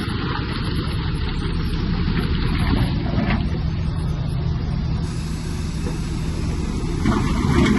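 Heavy earthmoving machine's diesel engine running steadily under load, with a louder rush of rumble and scraping noise about seven seconds in.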